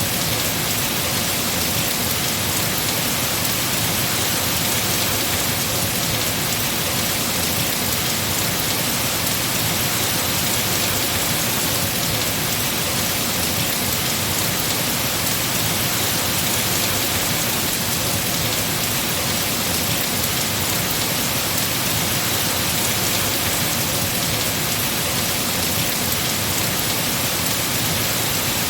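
Heavy rain falling steadily on trees and foliage, a constant dense patter with no breaks.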